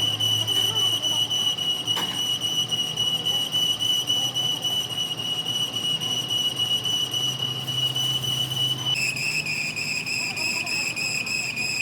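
A steady high-pitched whistling tone that drops slightly lower in pitch about nine seconds in.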